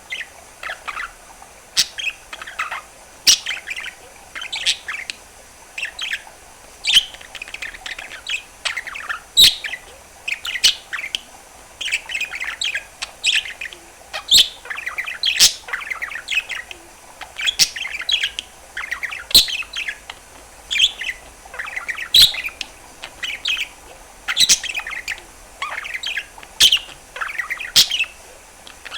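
A male budgerigar warbling continuously: a busy, irregular chatter of short chirps and trills, broken by sharp clicks or pops every second or so.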